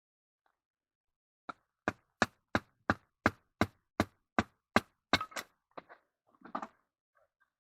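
A tent stake being hammered into the ground: about ten sharp, even blows at roughly three a second, then a few weaker, irregular knocks near the end.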